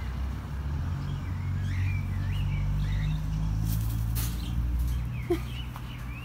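Faint, short bird chirps in a few scattered runs over a steady low hum, with a few brief clicks about four seconds in.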